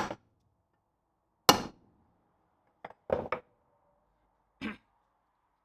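Hammer blows on a stuck brake drum of a Land Rover Series 2 front hub, knocking it loose. About six sharp, irregularly spaced strikes, the loudest two at the start and about a second and a half in, with a quick pair a little past the middle.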